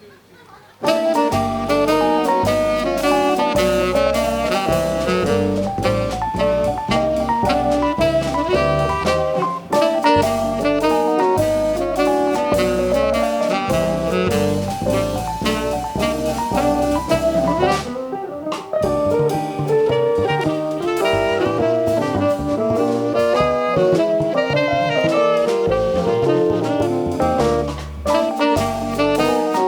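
Small jazz band playing live, kicking in suddenly about a second in, with a drum kit and a moving low bass line under the lead instruments.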